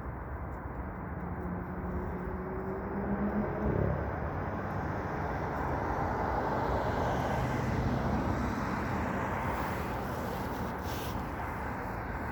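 Steady outdoor background rumble with a faint engine hum that grows for a couple of seconds and stops about four seconds in, like a distant motor vehicle passing.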